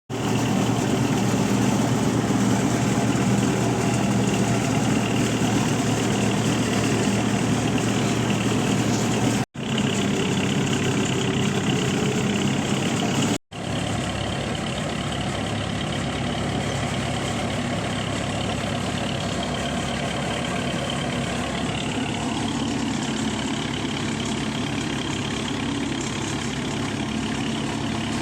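A tractor engine running steadily, with two brief gaps about nine and a half and thirteen and a half seconds in, where the sound cuts out abruptly.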